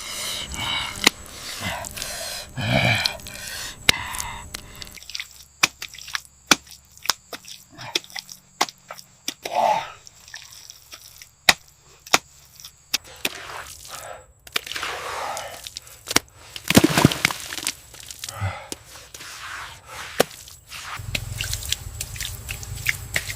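Irregular sharp knocks and clicks, with muffled voices during the first few seconds and again about two-thirds of the way through.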